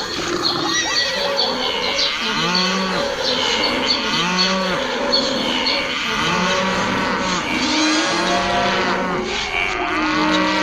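Cattle mooing: about five arching calls, roughly two seconds apart, over a busy background of other animal sounds.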